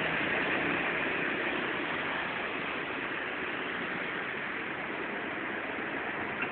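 Rain falling steadily, an even hiss that eases a little in loudness.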